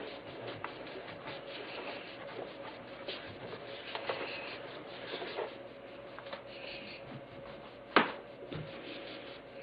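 Wiping and rubbing the inside of a microwave to clean off foaming cleaner residue, in short strokes with light clicks, and one sharp knock about eight seconds in.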